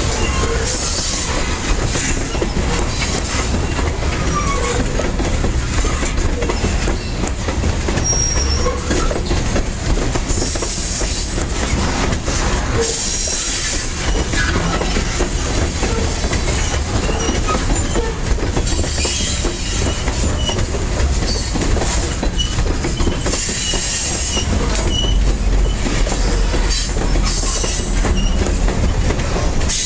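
A long, heavily loaded freight train of grain hopper cars rolling past, with a steady loud rumble and wheels squealing briefly now and then.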